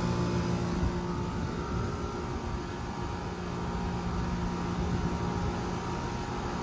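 Outdoor central air-conditioner condenser running: a steady compressor hum with the whoosh of the condenser fan, with no rattle.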